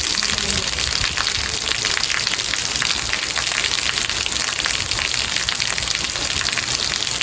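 Steady rain falling, a dense patter of drops over a constant hiss.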